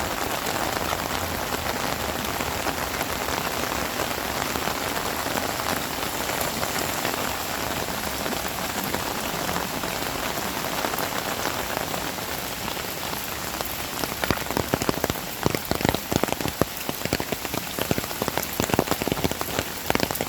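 Heavy rain falling steadily on surfaces. About two-thirds of the way through, loud, close drops begin spattering irregularly over the steady rush.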